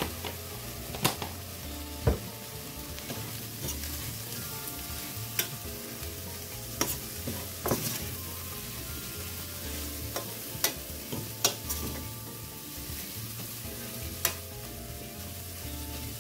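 Corned beef with garlic and sofrito sizzling in a stainless steel frying pan as a metal spoon stirs it, with a steady frying hiss and about eight sharp clinks of the spoon against the pan.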